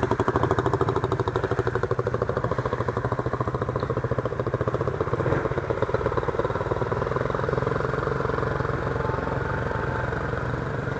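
Motorcycle engine idling steadily with an even, fast pulsing beat that smooths out somewhat in the second half.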